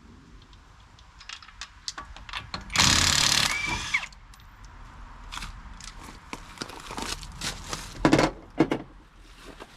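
Harbor Freight impact wrench run in one short burst on a lug nut about three seconds in, then scattered clicks and clanks of metal parts and tools, with two louder knocks near the end.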